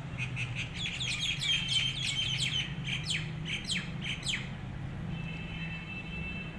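Small birds chirping: a quick run of short, falling chirps for about four and a half seconds, then a thinner, steadier twitter near the end, over a low steady hum.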